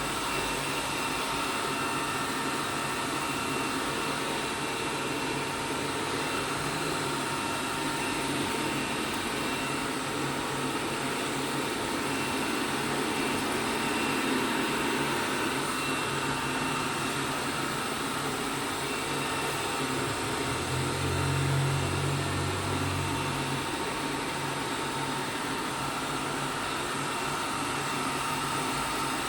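ELARI SmartBot Lite SBT-002A robot vacuum cleaner running, a steady whirr with a faint thin whine. A deeper hum joins for about three seconds two-thirds of the way through.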